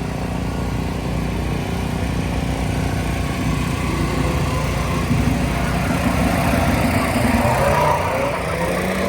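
Car engine running at a steady pitch, which shifts near the end.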